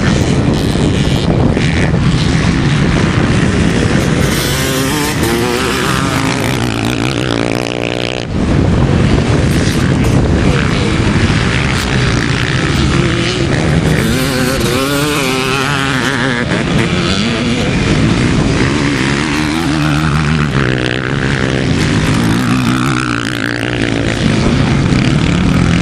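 Several vintage motocross motorcycles, ČZ two-strokes among them, running hard on the track. Their engines rev up and down, with overlapping pitches rising and falling as the bikes pass.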